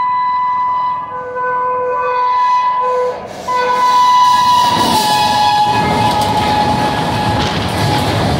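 Rajdhani Express passing through a station at speed. The electric locomotive's horn sounds in long blasts, broken twice. The last blast drops in pitch as the locomotive passes, and the loud rush and rumble of the coaches going by follows.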